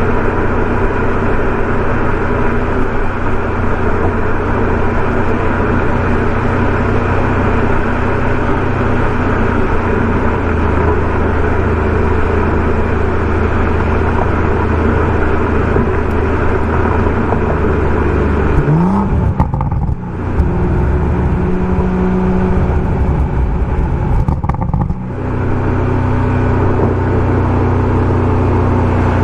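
BMW M140i's turbocharged 3.0-litre straight-six through a Remus aftermarket exhaust, pulling at steady revs. About two-thirds of the way through, the pitch rises briefly, then the sound drops quieter and thinner for about five seconds before the steady engine note comes back.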